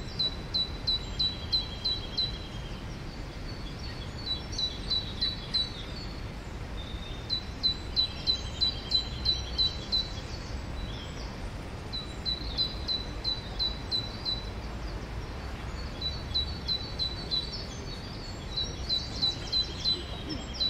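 Songbirds singing: one repeats short phrases of rapid, identical high notes, about five a second, each phrase about two seconds long with short pauses between, and a lower buzzy trill comes in a few times. A steady low rumble lies underneath.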